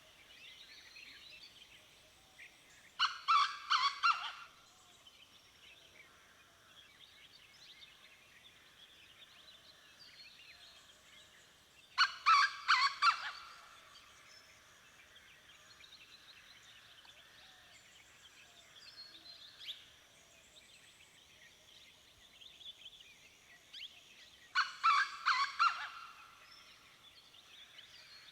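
Dawn chorus of songbirds singing, with three loud bursts of rapid repeated calls from a larger bird, each lasting about a second and a half, roughly ten seconds apart.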